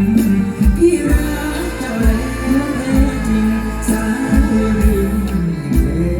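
Live mor lam band music over a loud PA: a singer's melodic line over amplified instruments with a steady bass beat.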